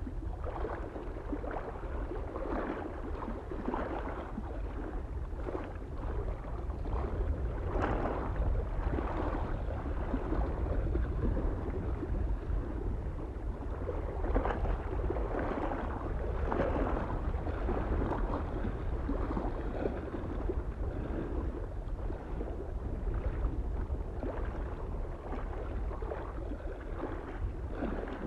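Small waves lapping and splashing irregularly against a lake shore, a surge every second or two, over a steady low rumble of soft wind.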